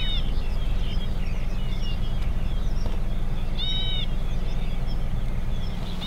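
Wild birds calling: a short, clear call heard twice about four seconds apart, with softer chirps in between, over a steady low rumble.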